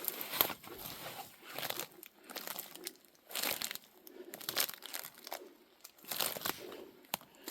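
Footsteps crunching on twigs, branches and leaf litter, with brushing through undergrowth, in uneven steps about once a second.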